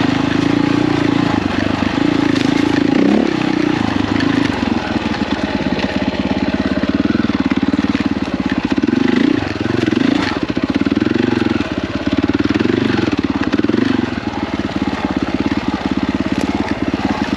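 KTM 450 EXC single-cylinder four-stroke dirt bike engine under way, its pitch rising and falling over and over as the throttle is worked.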